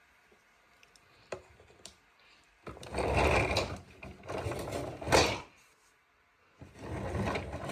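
Cartoon sound effect: a fast mechanical rattling whir in two loud bursts, the first about three seconds long and the second starting about a second after it ends, preceded by a few faint clicks.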